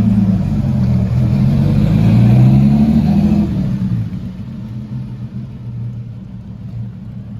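A car engine revving, its note rising a little, loud for the first three and a half seconds, then dropping away to a quieter steady engine sound as the car moves off.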